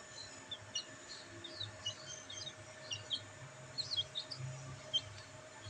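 Black bantam chicks peeping: many short, high chirps, several a second, some dropping in pitch. A faint steady hum runs underneath.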